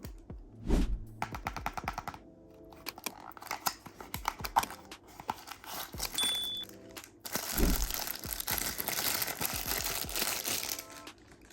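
Toy car packaging handled by hand: plastic wrapping crinkling and tearing with many light clicks and taps, and a thud about a second in. Near eight seconds there is another thud, then a few seconds of dense crinkling.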